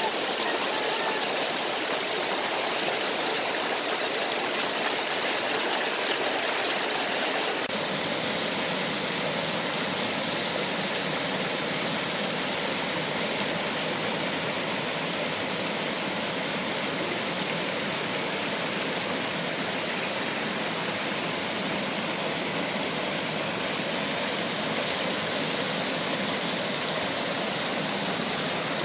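Waterfall and stream water rushing steadily in a dense, even noise. About seven or eight seconds in the sound shifts slightly, a little less deep and a little quieter.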